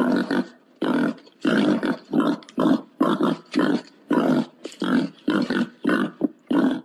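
Pig grunting in short, rough calls, about two a second, stopping abruptly near the end.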